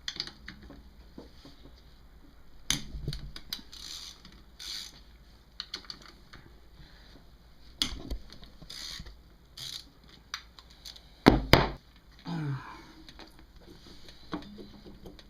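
Scattered clicks, taps and metal clanks of hand tools and engine parts being worked on a motorcycle engine, with the loudest clank about eleven seconds in.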